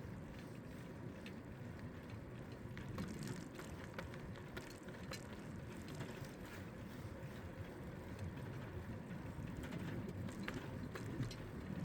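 Bicycle being ridden: steady rumble of tyres and wind, with light scattered clicks and rattles from the bike.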